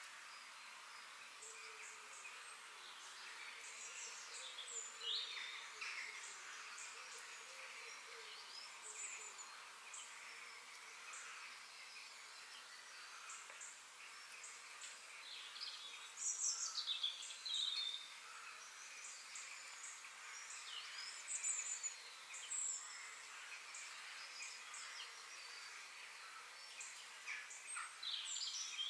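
Several forest birds singing and chirping, their calls overlapping, with bursts of quick sweeping notes that are loudest midway and near the end, over a steady high hiss.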